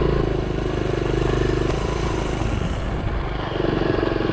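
Honda CT70's small single-cylinder four-stroke engine running under way while being ridden on a trail. Its note eases off about two seconds in and picks up again near the end as the throttle is opened.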